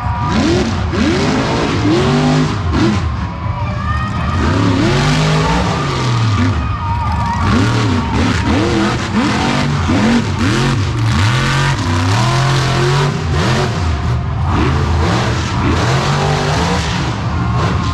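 Monster truck engine revving hard again and again, its pitch climbing and dropping every second or so.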